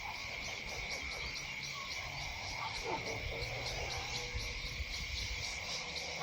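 Evening insect chorus: a steady high trill with fast, evenly pulsing chirps above it, and a few short frog calls, one dropping in pitch about three seconds in.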